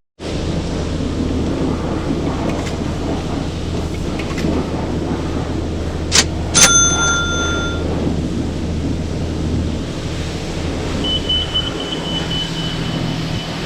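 Steady low hum of self-serve car wash equipment, with two sharp clicks about halfway through, the second followed by a short metallic ringing tone, and a faint high steady whine near the end.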